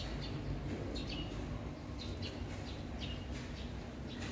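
Bird chirping: short, high, falling calls repeated roughly once a second, over a steady low outdoor rumble.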